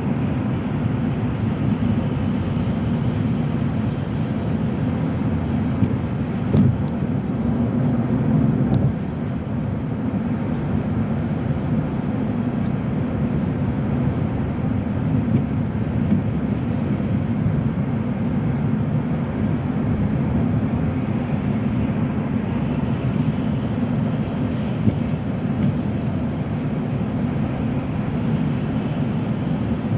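A car driving along: a steady, low rumble of road and engine noise heard from inside the cabin.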